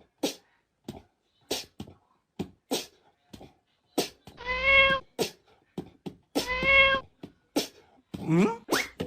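Kitten meowing: two long, even-pitched meows about four and six and a half seconds in, with short sharp sounds in between.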